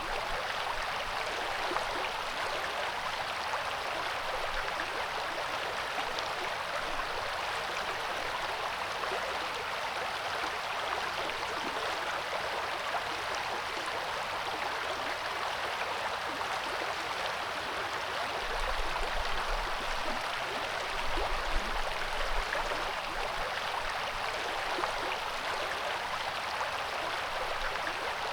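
River water flowing over rocks, a steady even rush. Brief low rumbles come in about two-thirds of the way through.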